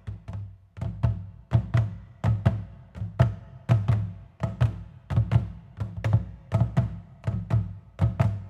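Korean traditional drums played in a steady, driving rhythm, the deep strokes often falling in pairs, about two to three a second.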